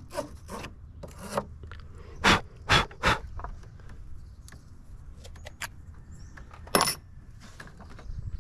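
Lead-acid car battery terminal being scraped clean of dull grey lead oxide down to bare metal: a few short, sharp scraping strokes, the loudest three in quick succession a couple of seconds in and one more near the end, with light metallic clicks between.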